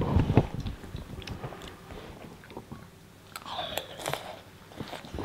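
A child chewing a mouthful of soft instant noodles close to the microphone, with small wet mouth clicks that come thickest in the first second and then thin out.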